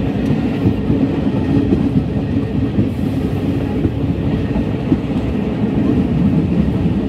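A passenger train in motion, heard from inside the coach: a steady low rumble and rattle of the wheels running on the rails.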